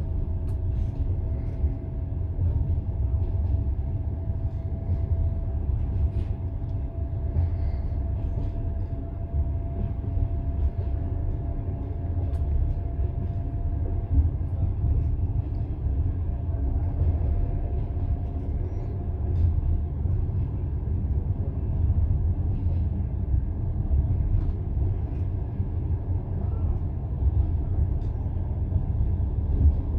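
Passenger train carriage running along the line, heard from inside: a steady low rumble of the wheels on the rails, with scattered faint clicks. A faint steady whine fades out about halfway through.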